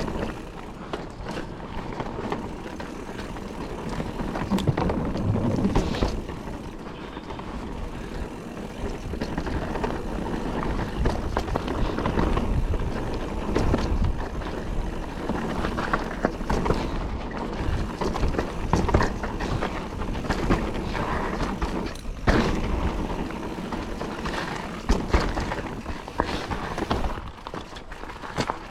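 Calibre Triple B mountain bike riding a dry, loose trail: steady tyre noise over dirt and gravel, broken by frequent knocks and rattles from the bike over bumps.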